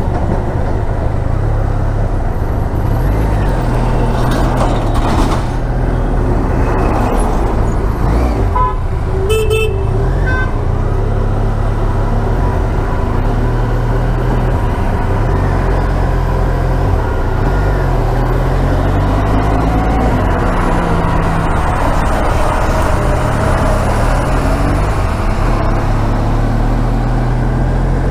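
Motorcycle engine running at road speed, its pitch rising and falling with the throttle, under steady wind noise. A vehicle horn honks briefly about nine seconds in.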